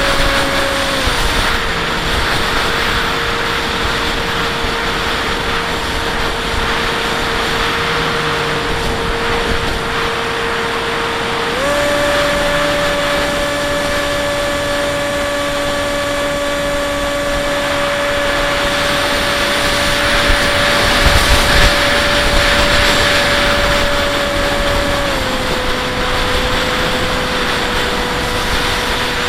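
Bixler 1.1 RC plane's electric pusher motor and propeller whining steadily in flight, with wind rushing over the onboard camera. The pitch steps down about a second in, jumps up a little before halfway as the throttle is opened, and drops back again near the end.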